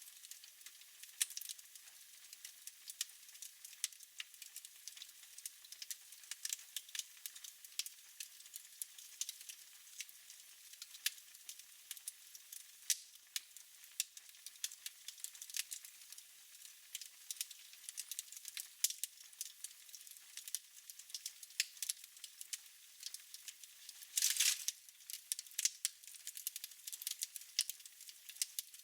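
Fire crackling in a fireplace: many small, irregular pops over a soft hiss, with one brief louder burst of hissing about 24 seconds in.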